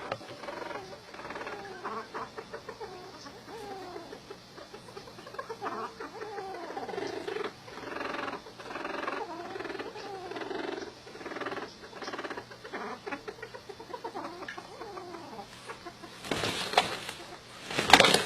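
Fowl clucking and calling in a steady run of short calls, many falling in pitch. Near the end come a few loud, sharp knocks or rattles.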